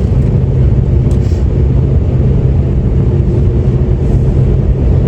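Steady low rumble of a car heard from inside the cabin, engine and road noise as the car drives off.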